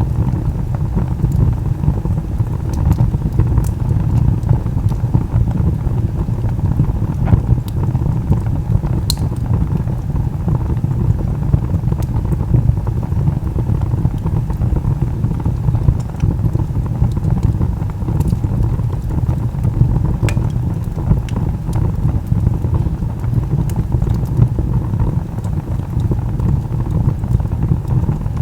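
Wood log fire burning: a steady low rumble with scattered sharp crackles and pops, one louder pop about nine seconds in.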